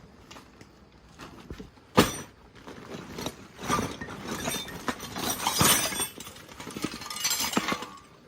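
A sharp metal knock about two seconds in, then irregular clinking and clattering of metal hand tools being handled, stopping near the end.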